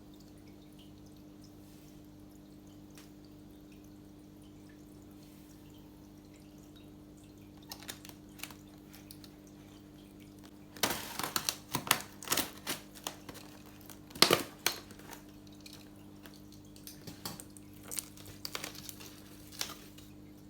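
Water splashing and dripping in irregular short bursts, sparse at first and busier from about halfway through, over a steady low hum like an aquarium pump or filter.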